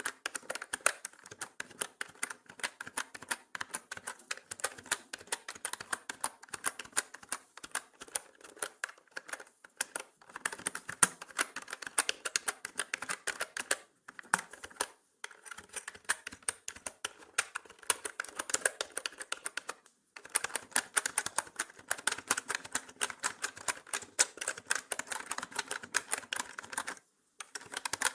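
Mechanical keyboard typing: rapid, continuous key clicks in runs of several seconds, with brief pauses about ten, fourteen, twenty and twenty-seven seconds in.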